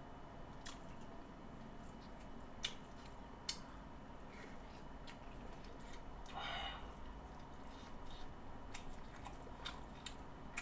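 A person quietly chewing a mouthful of pork kimchi stew, with several soft sharp clicks scattered through, and a short breathy noise about six and a half seconds in.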